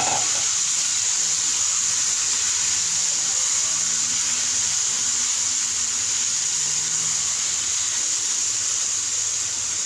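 Boiled hyacinth beans and potatoes sizzling in hot tempering oil in a frying pan as they are stirred, a steady hiss. The moisture from the boiled vegetables is being fried off in the oil.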